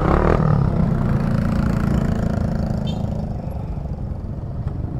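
Motorcycle engines idling with a steady low hum that eases off a little after about three seconds.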